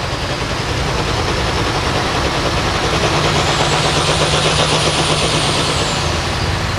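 International pulling tractor's turbocharged diesel engine running hard, with a high whistle that rises midway and falls away near the end, on a pull attempt that runs into trouble and has to be re-run.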